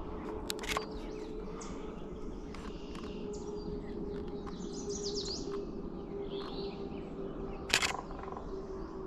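Several wild songbirds chirping and singing in a wetland chorus. Near the end comes a short burst of sharp clicks, a camera shutter firing.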